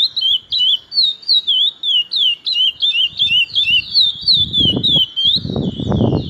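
Curió (chestnut-bellied seed finch) singing a fast run of clear, sliding whistled notes, about three a second, rising and falling in turn. A low rumbling noise comes in over the last two seconds.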